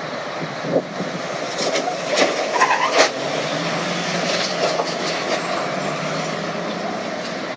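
Steady car and road noise with several sharp knocks about one to three seconds in.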